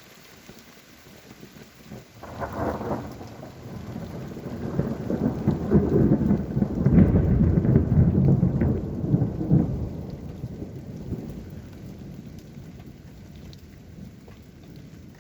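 Thunder rolling over steady rain: a first burst about two seconds in, then a long low rumble that builds to its loudest around seven to eight seconds in and dies away.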